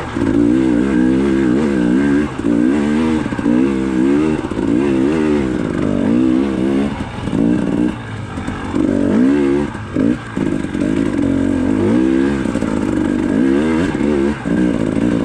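300cc two-stroke dirt bike engine being lugged up a rocky climb, its revs rising and falling over and over as the throttle is worked, with a few brief drops near the middle.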